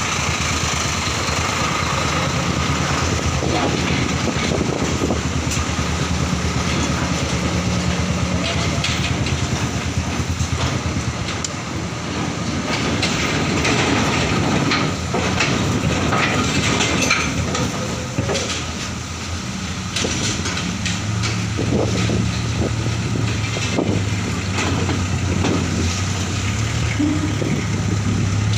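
Heavy trucks' diesel engines running low as they drive off a ferry, with scattered knocks and clatter throughout; the engine sound grows louder from about two-thirds of the way in.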